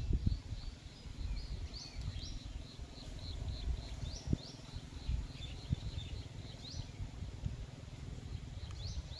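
Small birds chirping, a rapid run of short, sharp notes repeated throughout, over a steady low rumble of outdoor noise, with a single click about four seconds in.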